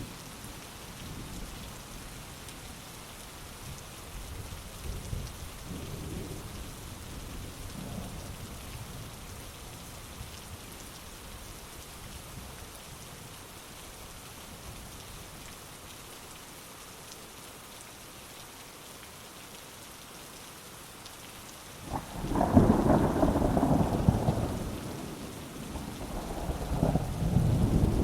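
Heavy rain falling steadily, with soft thunder rumbling in the first few seconds. About three-quarters of the way in, a loud clap of thunder breaks in suddenly and rolls on, with a second rumble swelling near the end.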